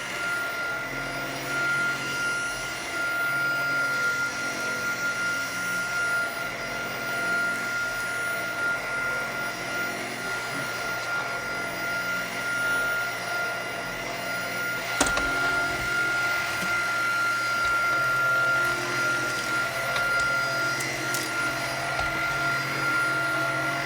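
Tineco cordless stick vacuum running steadily with its powerhead on carpet, a constant high-pitched whine over the motor's airflow. A single sharp click about halfway through.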